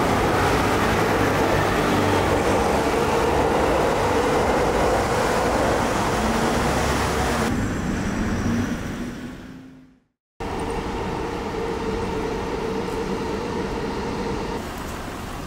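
Loud, steady noise of a train at a railway station, with a low whine rising in pitch as it fades out. After a brief silence it cuts to the steady traffic noise of a city street.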